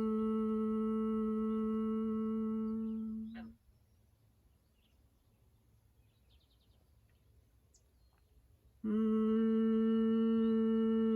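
Bhramari humming-bee breath: one person hums a single steady, held note that ends about three and a half seconds in. After a pause of about five seconds, a new hum on the same pitch starts.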